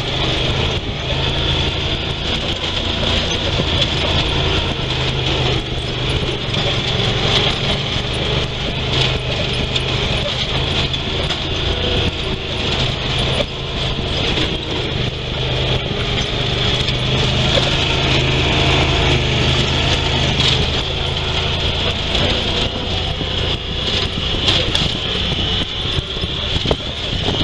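Honda Pioneer 1000 side-by-side's 999 cc parallel-twin engine running steadily as it drives over rough rocky trail, with scattered knocks and rattles from the ride.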